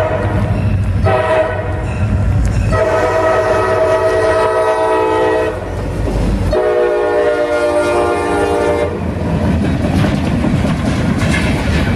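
Freight locomotive air horn blowing long blasts for a grade crossing: one blast ends about a second in, a long one runs to about five and a half seconds, and another runs from about six and a half to nine seconds. After that the horn stops and the rumble and clickety-clack of the passing train's wheels on the rails carry on.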